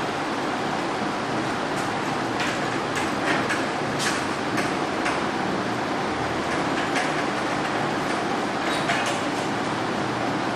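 Steady background noise with a scatter of faint, short scratchy strokes.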